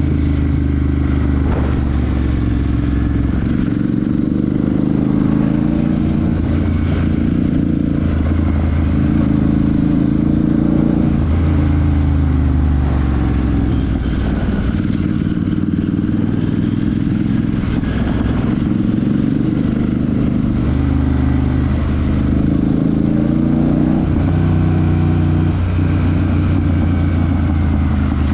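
Royal Enfield Super Meteor 650's parallel-twin engine and exhaust running under way, its pitch stepping up and down several times as the throttle is opened and closed and gears change.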